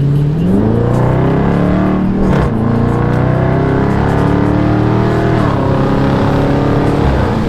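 Car engine accelerating hard: its pitch climbs, drops at a gear change about two seconds in, climbs again, then falls back as the throttle eases about five and a half seconds in.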